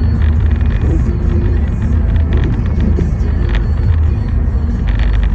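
A car driving, heard from inside: a steady low road and engine rumble with scattered short ticks.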